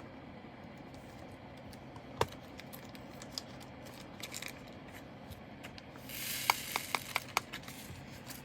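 Small handling noises of sorting leftover diamond-painting drills: a sharp click about two seconds in, then about six seconds in a brief rustle of a small plastic bag with a quick run of clicks as the tiny resin drills rattle.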